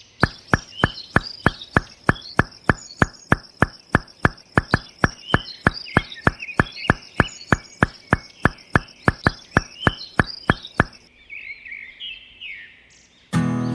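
Steady, evenly spaced knocking, about three and a half knocks a second, each with a short ring, with birds chirping over it. The knocking stops about eleven seconds in, leaving only the birds.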